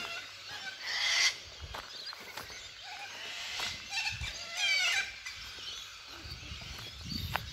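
Birds calling outdoors: one sharp call about a second in, then a run of quick, rising chirps around four to five seconds in.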